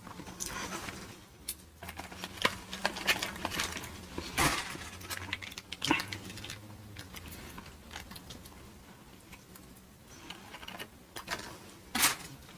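Close-miked eating sounds: chewing, lip smacks and soft wet mouth clicks at an irregular pace, with a few sharper clicks and crackles.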